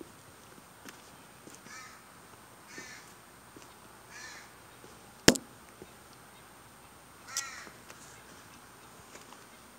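A crow cawing four times, the calls a second or more apart. A single sharp click about five seconds in is the loudest sound.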